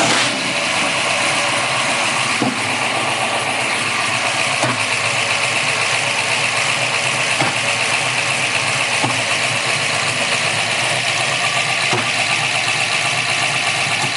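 Custom-built 565 cubic-inch big-block Chevrolet V8 with Hilborn injection idling steadily just after starting, with a sharp pop every two to three seconds at uneven spacing. The engine misfires and runs very rich, a fault that a new coil, a different MSD unit and a separate shielded ignition wire have not cured.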